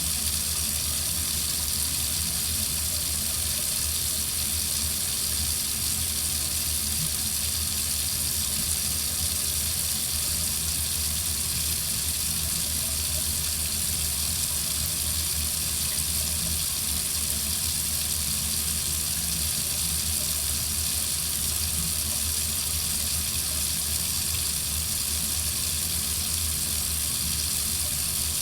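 Water faucet running steadily, an even unbroken flow of water.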